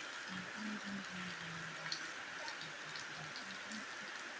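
Steady rain hiss with scattered drip ticks.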